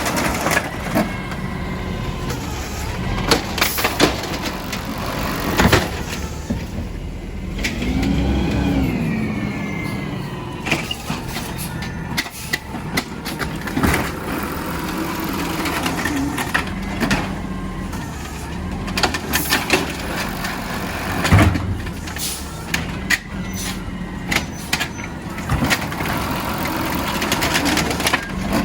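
Garbage truck engine running, with repeated clanks and knocks and a rising-then-falling whine about eight seconds in.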